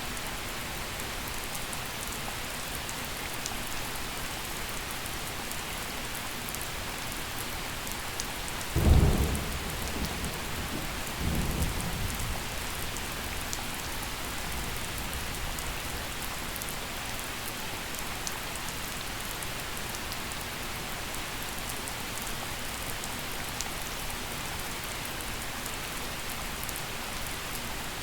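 Steady gentle rainfall, with a single clap of thunder about a third of the way in: a sharp crack that rolls into a low rumble lasting a few seconds before the rain alone goes on.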